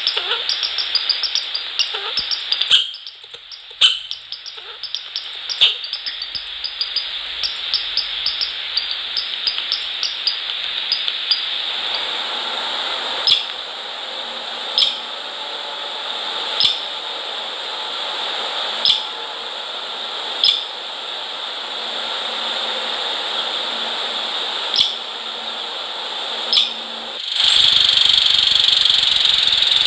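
Small birds at a feeder: short, sharp, high ticks, rapid for the first dozen seconds and then one every second or two, over a steady hiss that grows louder near the end.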